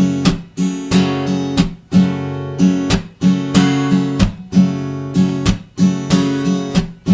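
Acoustic guitar strummed in a steady repeating pattern of down, up, down-mute, two ups, then a muted down and up. The chord rings on the open strokes and is choked short on the muted ones.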